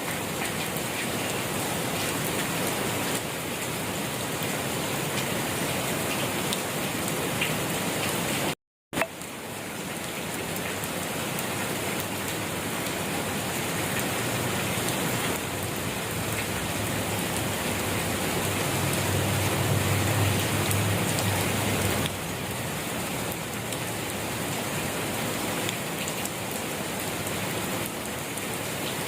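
Steady rain falling on a surface, an even hiss of many drops. The sound cuts out completely for a fraction of a second about nine seconds in, and a low rumble swells under the rain in the middle before stopping abruptly.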